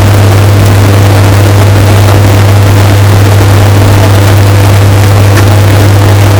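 Washing machine running, heavily bass-boosted and distorted: a loud, steady low hum under a harsh, clipped hiss.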